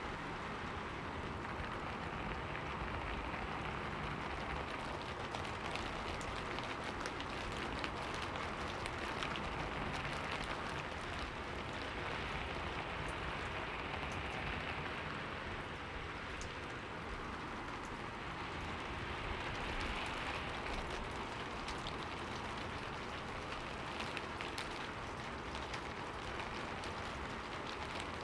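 Steady rain falling on a window, a constant hiss with many small drop ticks, swelling slightly now and then.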